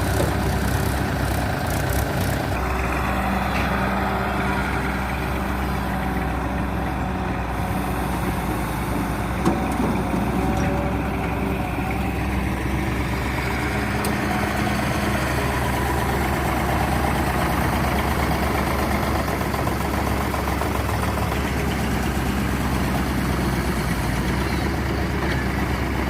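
Diesel tractor and excavator engines running steadily, their pitch rising and falling now and then as they work. There is a single sharp knock about nine seconds in.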